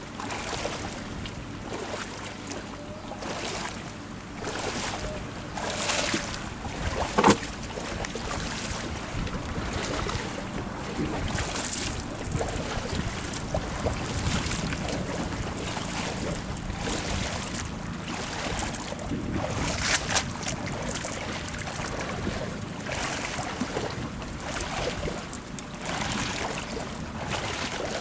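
Water splashing and sloshing in irregular surges, with wind buffeting the microphone. A single sharp knock stands out about seven seconds in.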